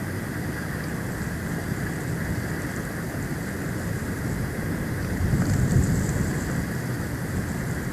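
Storm wind buffeting the outdoor nest-camera microphone: a steady low rumbling rush that swells with a stronger gust about five to six seconds in.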